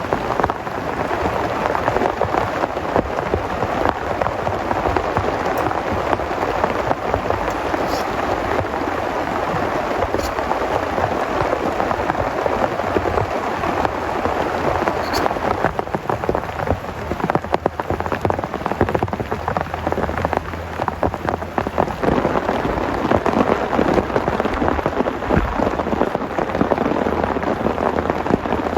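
Heavy rain pouring steadily, a dense, continuous patter of drops on a surface, with a few sharper single drips standing out.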